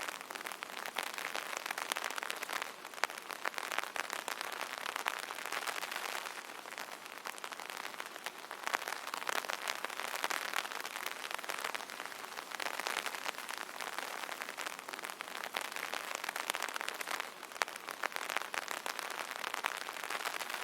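Rain pattering on an umbrella: a dense patter of many small drop impacts that swells and eases every few seconds.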